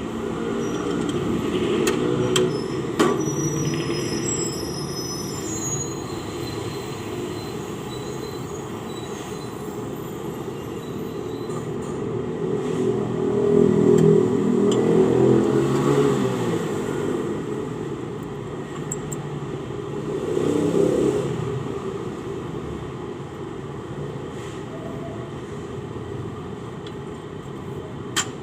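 Low vehicle rumble that swells and fades twice, about halfway through and again a few seconds later, like vehicles passing, with a few sharp clicks.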